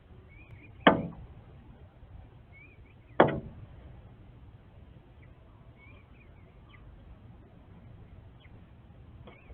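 A northern cardinal striking the window glass twice, two sharp knocks about two seconds apart, each with a short ring. Faint short high bird chirps sound between them.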